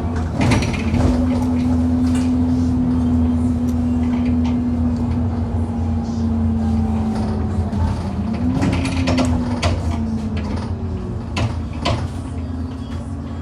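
Inside a moving bus: the engine and drivetrain run with a steady whine over a low rumble, and the pitch rises and falls about two-thirds of the way through. Loud knocks from the bus hitting potholes come about half a second in, then in a cluster later on.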